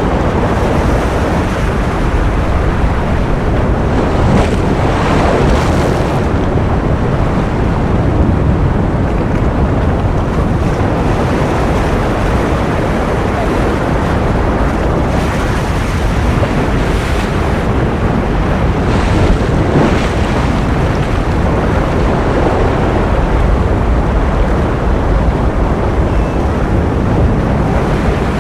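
Ocean surf: a continuous rushing wash of waves, with slight swells in level every few seconds.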